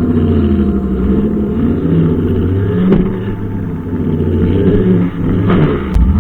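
Brushcutter engine running steadily at working speed, its note dropping and recovering twice in the middle and near the end as the load changes, with a couple of brief clicks.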